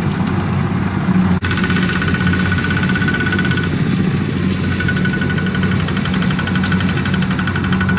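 Kubota mini tractor's diesel engine running steadily. A brief break comes about a second and a half in, after which a thin, steady high whine sits over the engine.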